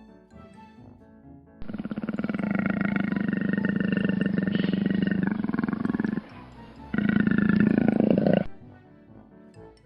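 Leopard growling: a long rasping growl, then a shorter second one starting about seven seconds in, over light children's background music.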